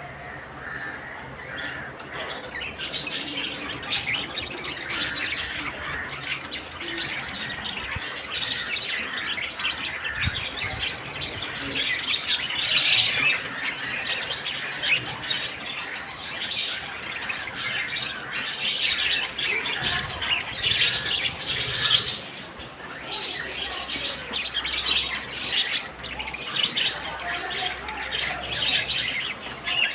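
Pet lovebirds and budgerigars chirping and squawking together without pause, with sharper, louder calls breaking out every few seconds.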